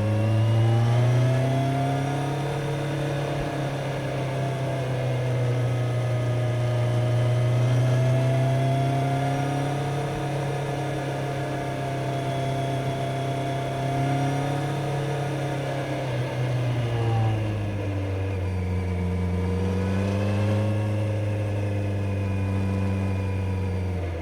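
Kawasaki Z900's inline-four engine and exhaust under way, pulling up through the revs at first and then holding a fairly steady note. About two-thirds of the way through the revs drop sharply, then hold steady again at a lower pitch.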